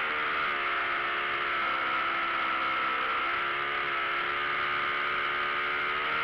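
Hangar 9 Taylorcraft quarter-scale RC airplane's motor and propeller running steadily in flight, its pitch stepping down and back up a few times as the throttle is adjusted, with a steady rush of airflow over the wing-mounted camera's microphone.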